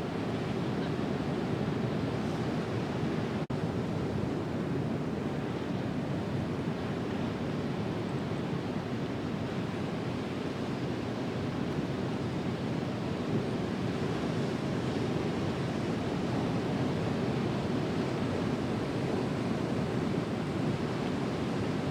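Ocean surf breaking on a sandy beach: a steady, continuous rush of waves, with a split-second drop-out about three and a half seconds in.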